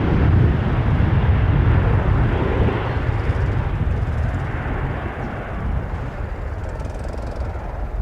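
Jet airliner departing, its engines at takeoff power, the noise fading steadily as it climbs away.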